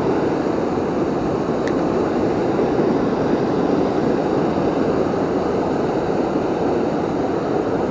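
Steady rushing of water from a river waterfall, an even wash of noise that does not change, with one small click a little under two seconds in.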